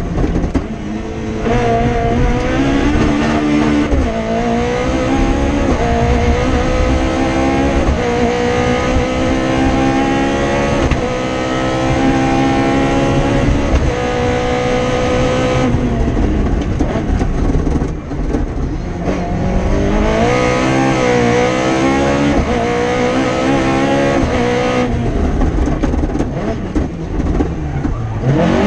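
Toyota Starlet KP61's 4A-GE twin-cam four-cylinder engine heard from inside the car, driven hard on a rally stage. The engine note climbs through the revs and drops back at each gear change or lift, with clear lifts about halfway through and again near the end.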